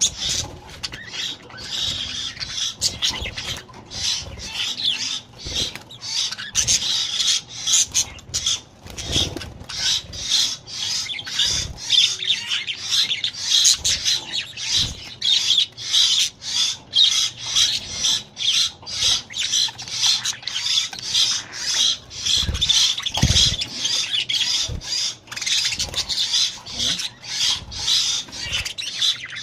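Budgerigars chattering and squawking without pause, mixed with quick rustling wing flaps as they bathe.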